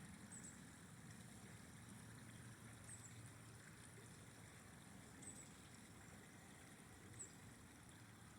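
Faint, steady rush of a flowing river, with four short, faint high chirps spread through it.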